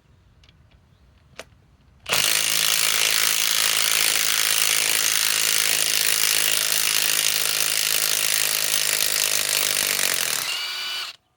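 Bosch GDS18V-330C cordless impact wrench running hard for about eight seconds, backing a lag screw out of wood, then winding down as the trigger is released. It starts about two seconds in, after a single click.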